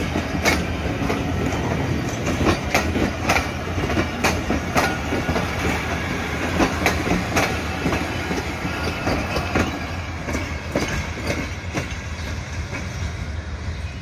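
Pakistan Railways passenger train coaches rolling past close by, wheels clacking over the rail joints above a low steady rumble. The clacks thin out and the sound fades in the last few seconds as the train draws away.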